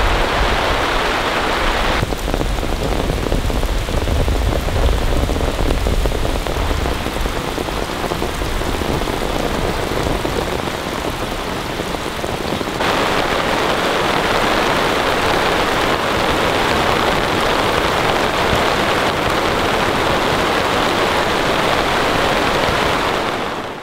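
Heavy rain pouring down steadily, with a low rumble under it in the first few seconds. The sound shifts abruptly twice and fades out quickly near the end.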